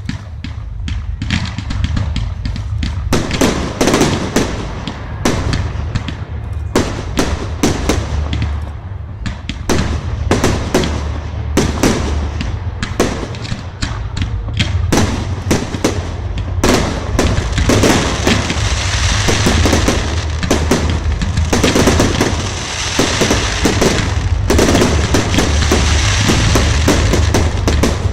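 Fireworks display: a rapid series of bangs and crackles over a steady low rumble. The bangs grow denser about halfway through into a near-continuous barrage.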